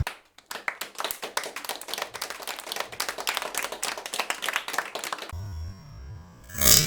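Rapid, irregular plastic knocking and clicking as the air filter box is pushed down again and again onto its rubber mounting grommets. Near the end low synth music comes in, with a brief loud burst of noise just before the end.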